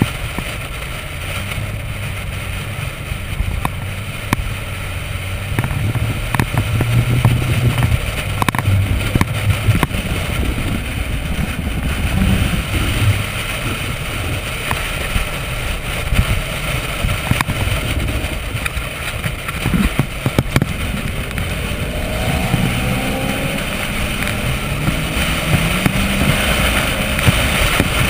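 Corvette V8 engine running under light throttle at parade-lap speed, heard from a camera on the car. Its note climbs in pitch over the last few seconds as the car accelerates onto the straight.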